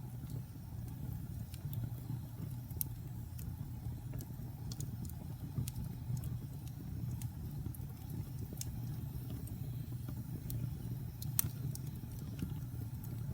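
Wood fire burning in a fireplace: a steady low rumble with irregular sharp crackles and pops, the loudest pop a little past eleven seconds in.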